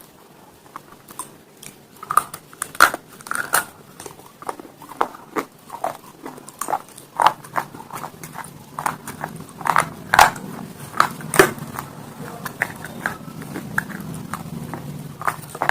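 Close-up crunching as pieces of slate stone are bitten and chewed: irregular sharp cracks, few at first, then coming thick and fast from about two seconds in.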